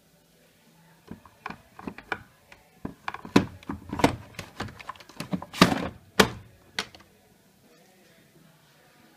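Irregular clicks and knocks of hard objects, a couple of dozen strikes over about six seconds, loudest about five and a half seconds in.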